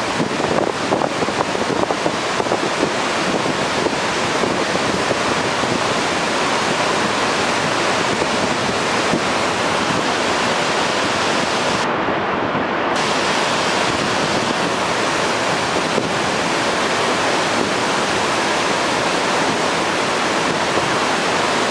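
Waterfall spouting from a mountainside, a steady, unbroken rush of falling water.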